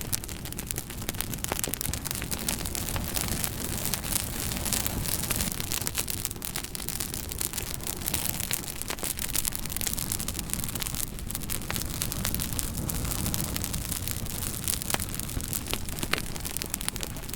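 Wood fire crackling: a steady hiss with frequent sharp pops and snaps scattered throughout.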